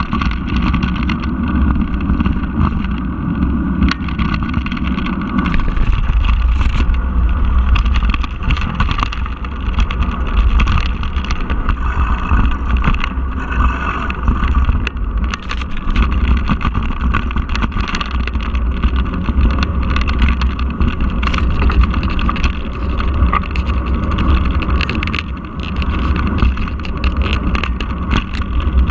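Wind buffeting the microphone of a camera riding along on a bicycle, with frequent rattles and knocks from the bike over rough ground.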